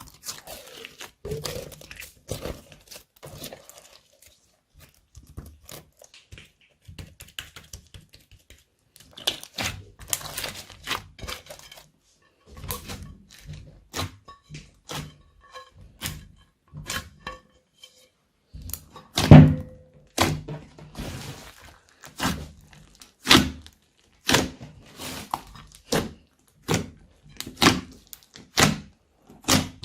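Slime being mixed and squished by hand: a run of irregular sticky pops and clicks, sparse at first and busier from about a third of the way in, with the loudest pop about two-thirds through.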